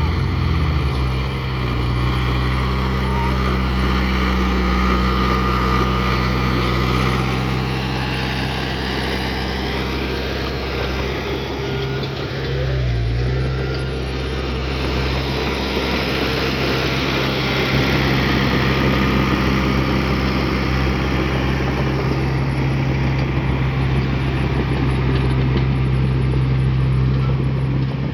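Bulldozer's heavy diesel engine running steadily as it works, with a wide mechanical noise over it. The engine note dips briefly about halfway through.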